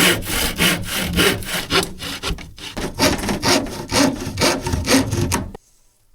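Hand saw cutting through wood in quick back-and-forth strokes, about three a second, with a brief pause partway through; the sawing stops abruptly near the end.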